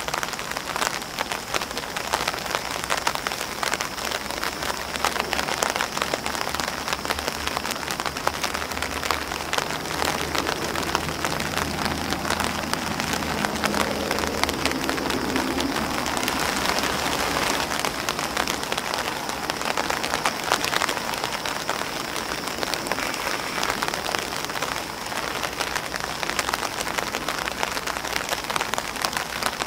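Rain falling on grass leaves and an umbrella: a steady, dense patter made of many separate drop taps.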